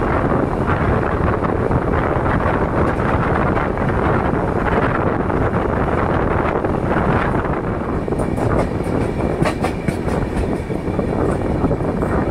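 Express train running on the track: a steady rumble and rush of wheels on rail. About two thirds of the way in, a quick run of sharp clicks from the wheels begins, along with a faint high ringing.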